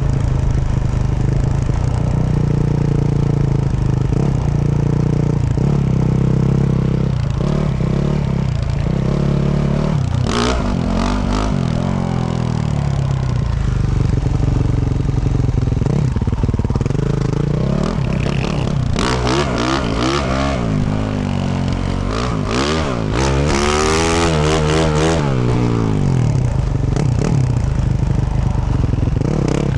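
2024 Yamaha YZ450F's 450 cc single-cylinder four-stroke engine through a Yoshimura RS-12 exhaust, running steadily at first and then revving up and down repeatedly in the second half, with sharp clattering knocks mixed in.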